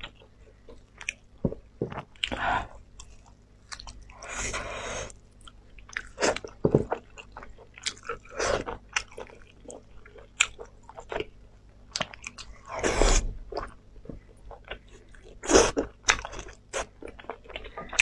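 Close-miked eating of sauce-glazed lamb ribs: irregular biting, chewing and wet mouth clicks as meat is torn from the bone, with two longer wet, noisy stretches about four and thirteen seconds in.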